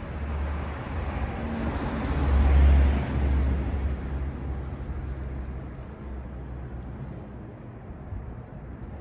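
A motor vehicle passing by, its engine rumble and tyre noise swelling to a peak about two and a half seconds in and then fading away.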